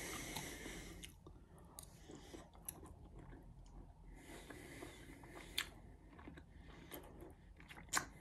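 A man quietly chewing a mouthful of food close to the microphone, with a few faint clicks.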